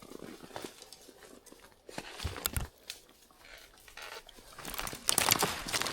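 Rustling and crackling of brush and dry leaves as someone walks through woodland cover. There are a couple of low thumps about two seconds in, and the crackling grows louder near the end.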